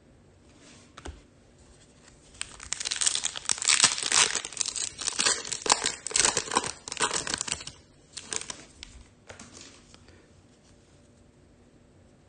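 Foil wrapper of a Topps Chrome trading card pack being torn open and crinkled, a run of crackling rustles for about five seconds, with a few more rustles after.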